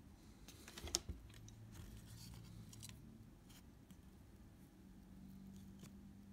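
Light clicks and taps of small parts and tools being handled: a quick cluster of sharp clicks about a second in, then a few scattered faint ticks.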